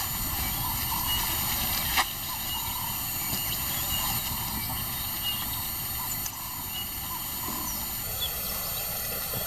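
Steady outdoor ambience of the savanna, with faint short high chirps scattered through it and a single sharp click about two seconds in.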